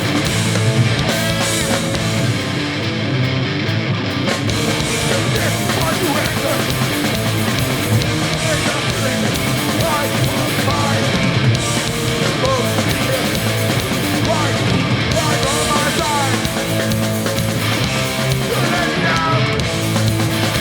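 Hardcore punk band playing live at full volume, with distorted electric guitars driving the song.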